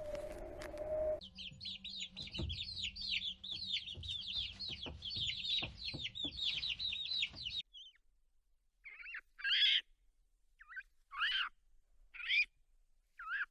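Birds chirping in a rapid, dense stream of high, quick downward-sweeping peeps. These stop abruptly and are followed, after a brief hush, by about five separate, lower bird calls. A steady held tone from the preceding animal clip cuts off about a second in.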